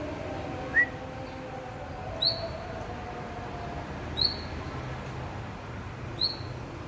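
A songbird giving short, sharp chirps, about one every two seconds. Each chirp is a quick high note that drops in pitch, and the first is lower than the rest.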